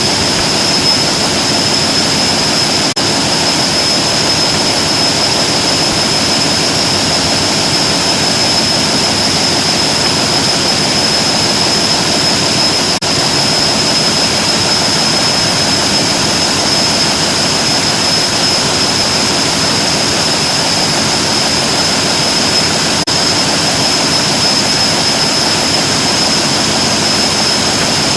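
Portable electric drill motor running continuously at a steady speed, a constant whirring noise with a steady high whine.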